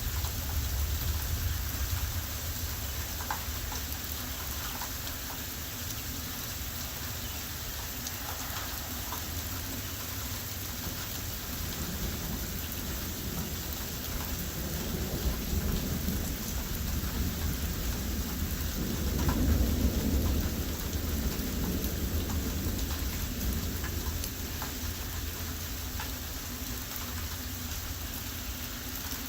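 Heavy thunderstorm rain falling steadily, with fine drop ticks. Underneath is a deep rumble of strong wind on the microphone, which swells and peaks about two-thirds of the way in.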